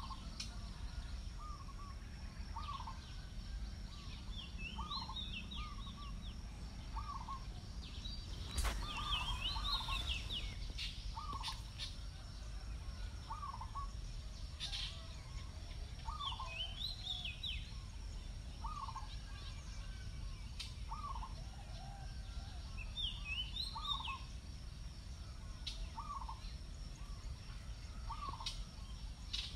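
Birds calling: one repeats a short note every one and a half to two seconds, while another gives quick clusters of high chirps every few seconds. A brief rustle about nine seconds in.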